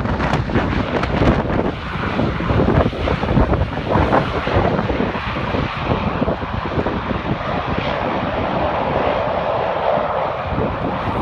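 Japan Air Commuter turboprop airliner's engines and propellers running as it lands, heard through heavy wind buffeting on the microphone.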